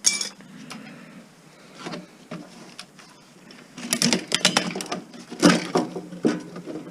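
Irregular knocks, clicks and rattles of the metal chassis and parts of an opened Aiwa stereo mini system being handled and taken apart, with a sharp click at the start and a denser clatter about four seconds in.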